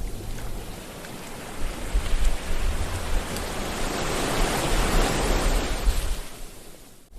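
Sea waves washing onto the shore: a rushing hiss that swells for a few seconds, then recedes and fades almost away near the end, over a low rumble.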